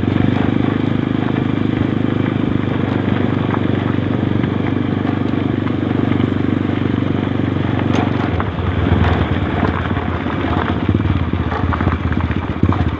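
Motorcycle engine running steadily while riding; about eight seconds in its note changes, dropping lower and growing choppier.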